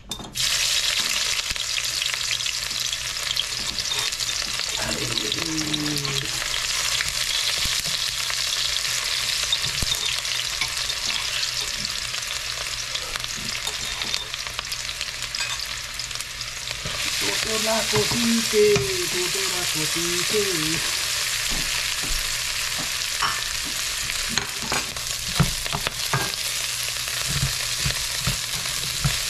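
Sliced onions sizzling in hot oil in a wok, the sizzle starting abruptly as the food goes into the pan. Near the end a wooden spoon knocks and scrapes against the pan as rice is stir-fried.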